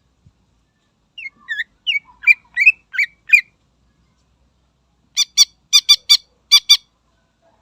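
Cucak ijo (greater green leafbird) singing: a run of about seven quick whistled notes that sweep up and down, then after a short pause a rapid burst of about eight harsher, clipped notes.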